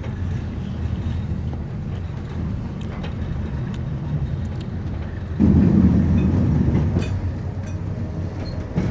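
Moving passenger train heard from inside the carriage: a steady low rumble of the wheels on the rails with faint rattles and clicks, growing louder about five and a half seconds in.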